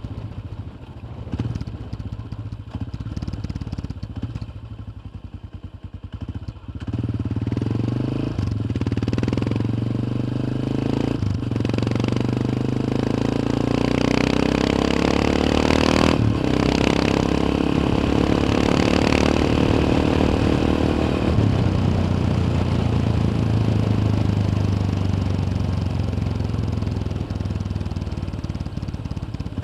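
Yamaha XT 600's single-cylinder four-stroke engine heard from onboard. It pulses low at first, then about seven seconds in the throttle opens and the engine note climbs with the revs. A couple of short clicks come midway, and the note then settles into a steady cruise.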